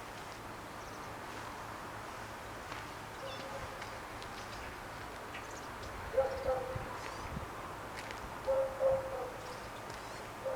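Faint, steady outdoor background noise, with a few short, low-pitched animal calls about six seconds in and again near the end.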